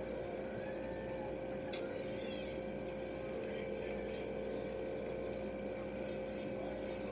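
Quiet soft chewing of a sandwich over a steady electrical hum, with one faint click a little under two seconds in.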